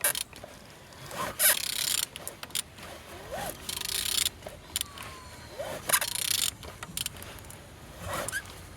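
Used engine being turned over by hand: repeated scraping strokes about every two seconds, with short squeaks in between. The engine turns freely, which is taken as a sign it is not seized.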